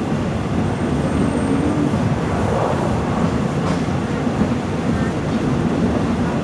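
Passenger train running along the track: a steady, unbroken rumble.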